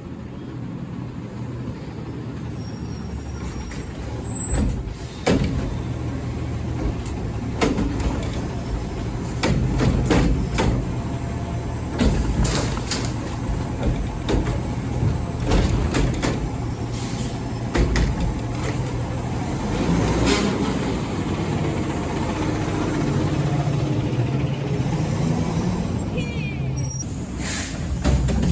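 Garbage truck engine running, with repeated sharp clanks and knocks as it handles and empties a bin. The engine note rises and falls, as when it revs to drive the hydraulics.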